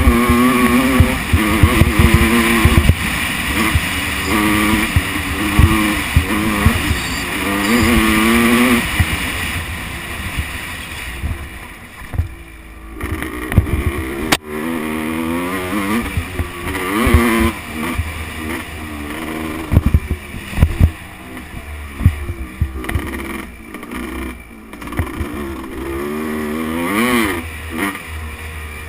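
Motocross bike engine revving up and falling off over and over as the throttle opens and closes and the gears change, with frequent low thumps. Around the middle it drops back to a quieter run for a few seconds, broken by one sharp click.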